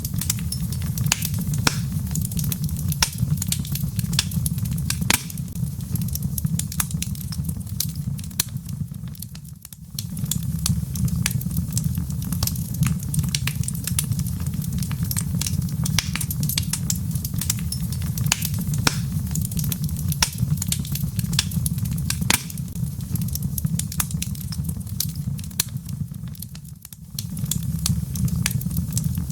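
Log fire burning in a fireplace: frequent sharp crackles and pops of burning wood over a steady low rumble. The rumble dips briefly twice.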